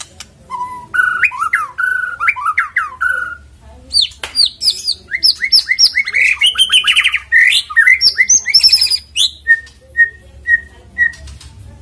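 White-rumped shama (murai batu) singing: varied whistled phrases, then a fast run of high, quick notes, ending with four short notes on one pitch.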